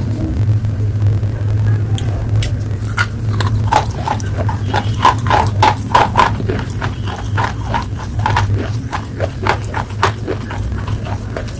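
Close-miked crunching and chewing of slate pencil: a rapid run of sharp, crisp crunches, densest a few seconds in, over a steady low hum.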